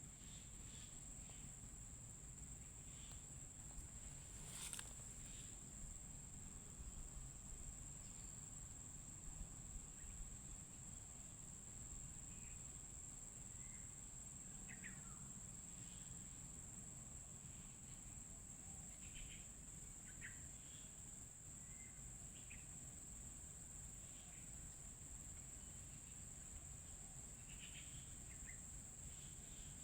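Faint outdoor ambience: a steady high-pitched insect drone with scattered short bird chirps over low background noise.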